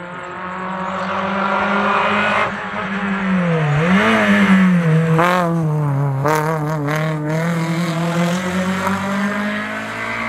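Rally car engine running hard, its pitch dipping and rising several times as the throttle is worked. There are a few sharp cracks near the middle.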